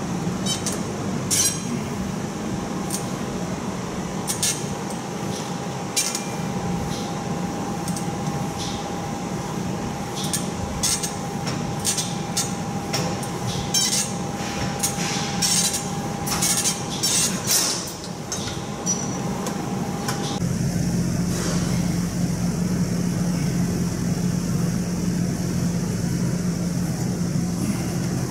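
Metal weights clinking and clanking again and again over a steady background hum. About twenty seconds in, the clinking stops and a lower steady hum takes over.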